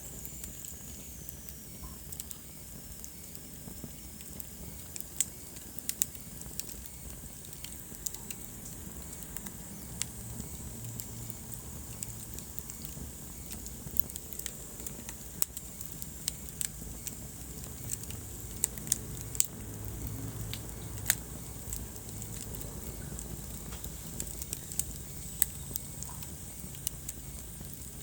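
Wood fire burning in a fireplace, crackling with irregular sharp pops and snaps over a low steady rumble of flame. Near the start a faint high whistle slides down in pitch.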